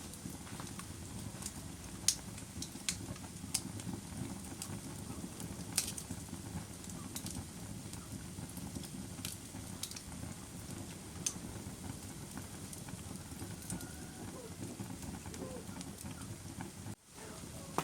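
Campfire burning: a steady low rush from the flames with irregular sharp crackles and pops from the burning wood. The sound cuts out for a moment about a second before the end.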